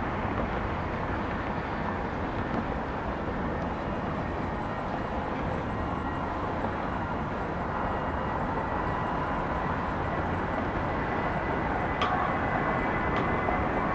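Airbus A320 jet engines running, a steady rumble with a faint high whine, growing a little louder near the end.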